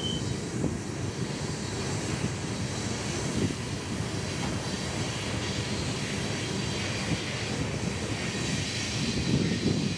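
Union Pacific freight train rolling past: a steady rumble of wheels on rail. A brief high tone sounds right at the start.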